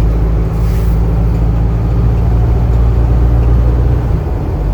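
Cab interior of a 2020 Hino 155 medium-duty diesel box truck cruising at about 50 mph: a steady low engine drone with road noise. A brief hiss comes about half a second in.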